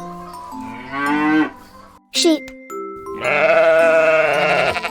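A sheep bleats once, a long wavering baa of about a second and a half near the end, after a short cow moo near the start. Gentle background music plays throughout.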